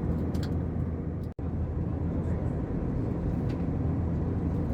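Steady low rumble of airliner cabin noise, from an Airbus A321 in flight. It cuts out abruptly for an instant about a second in, then carries on unchanged.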